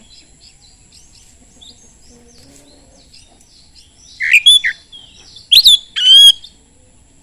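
Oriental magpie-robin (kacer) in full song: a run of quick, soft twittering notes, broken by loud whistled phrases about four seconds in and twice more shortly after, each sliding in pitch.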